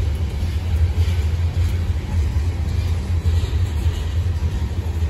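Manifest freight train cars rolling past at low speed, a steady low rumble; the train is slowing down.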